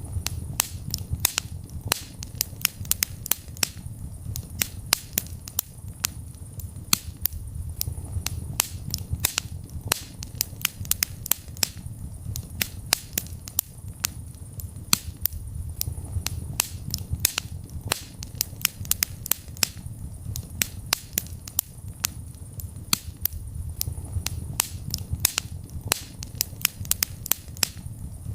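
Wood fire burning in a fireplace: many sharp crackles and pops, several a second, over a steady low rumble of the flames.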